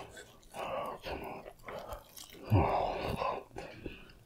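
A person chewing and biting fried chicken, with wet, irregular mouth noises. There are two louder bursts, about half a second in and about two and a half seconds in.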